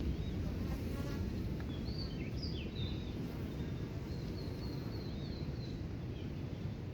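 Small birds giving quick, high chirps and twitters over a steady low rumble.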